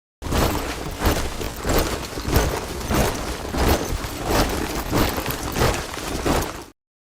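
Boots of a body of soldiers marching in step: a steady rhythm of stamping footfalls at about one and a half strides a second. It starts after a brief silence and cuts off suddenly near the end.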